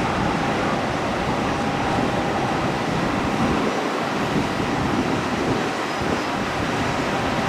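Airbus A320 jet engines running at a steady level, an even rushing noise with a faint steady whine.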